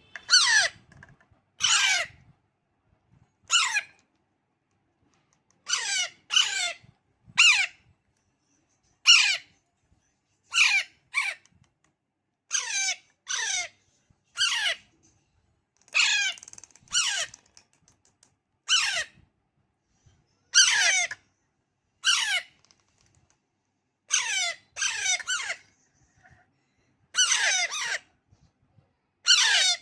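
Baby Pahadi parrot chick giving harsh, squawking calls, each sliding down in pitch, repeated roughly once a second, some two dozen in all. These are typical begging calls of a hungry chick at hand-feeding.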